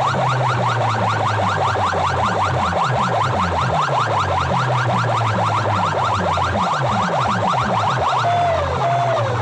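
Loud electronic siren effect played through a DJ sound system: rapid rising whoops, about five a second, over heavy bass. About eight seconds in it changes to slower falling tones.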